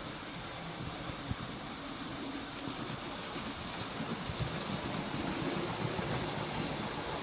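Model train running along the layout track: a steady motor hum and wheel rumble with light clicks from the rails.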